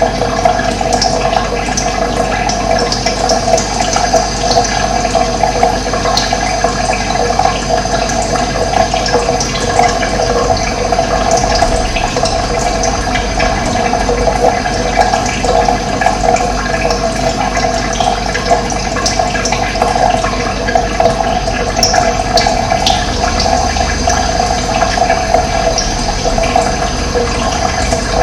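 Running water, a steady, even rushing flow.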